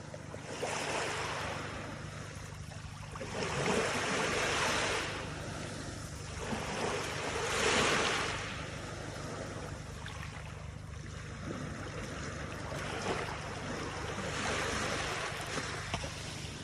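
Reservoir water washing in waves: a rushing noise that swells and fades every few seconds, over a steady low rumble.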